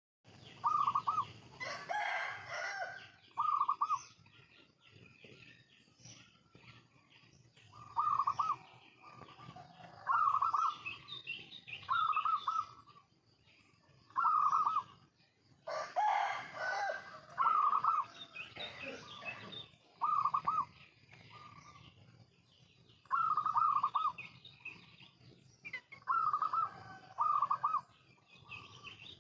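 Zebra dove (perkutut) cooing: short, bubbling coo phrases repeated every few seconds, used as a lure call to set other doves calling. Twice, longer and rougher calls from another bird break in.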